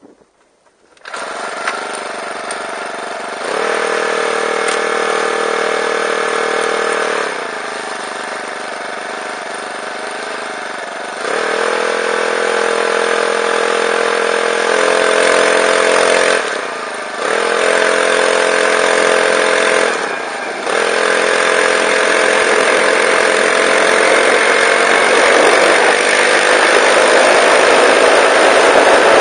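Golden Eagle bike engine on a recumbent trike starting up about a second in and running, its pitch stepping up and down several times with brief dips. Near the end the engine speed climbs slowly.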